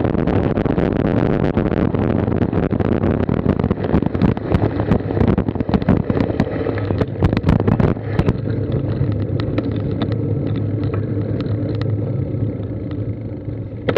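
Wind and road noise on a Garmin Virb action camera carried on a moving road bike: a steady loud rush with many sharp rattles and clicks from the road surface, the rattling thinning out about two-thirds of the way through.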